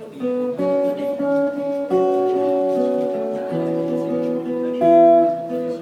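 Acoustic guitar playing, plucked notes and chords ringing on one after another.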